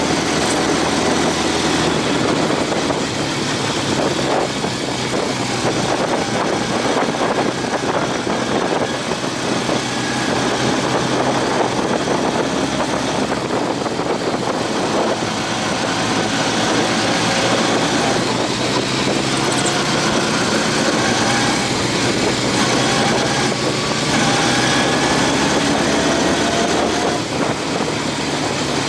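Honda CB750 motorcycle being ridden at speed: the engine's steady note mixed with heavy wind and road rush, the pitch rising several times as it pulls through the revs.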